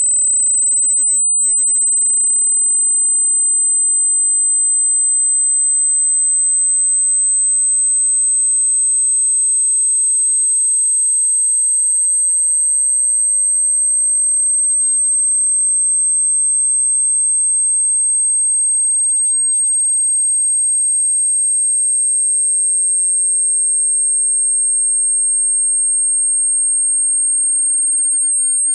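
A single high-pitched pure sine tone, slowly creeping up in pitch: a generated speaker-cleaning (water-eject) tone.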